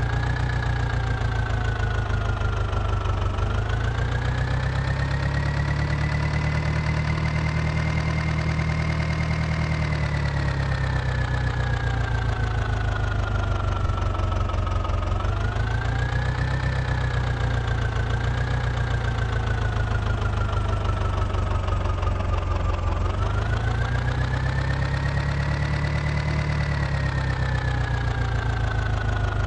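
An engine runs continuously with a whine, its speed slowly rising and falling about four times.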